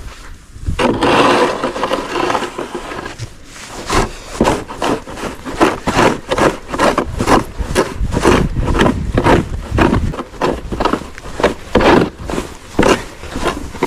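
Snow or ice being scraped away in quick, repeated strokes, about two or three a second, after a denser stretch of scraping near the start.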